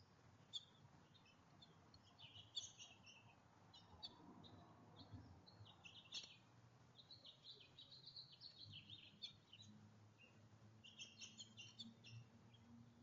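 Small songbirds at a backyard feeder chirping faintly, with short high chirps throughout and a longer twittering run about two-thirds of the way in.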